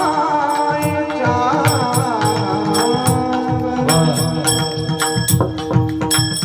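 Warkari bhajan music: pakhawaj drum strokes in a steady rhythm under held instrumental tones, with a singer's voice gliding through an ornamented, wordless line in the first few seconds.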